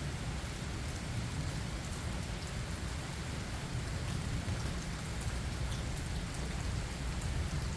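Steady rain falling in a forest, with scattered drops ticking and a low rumble underneath.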